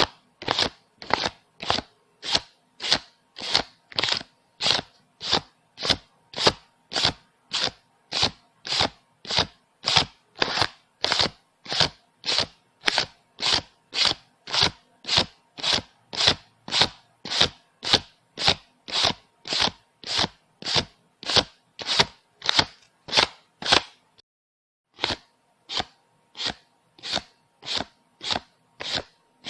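Paper banknotes counted by hand, one bill flicked off the stack at a time in a steady rhythm of about two a second, with a brief pause a little before the end.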